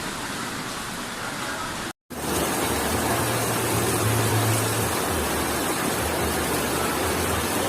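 Steady hiss of heavy rain. About two seconds in it cuts out for a moment, then returns as a louder rush of storm noise with a wavering low rumble underneath.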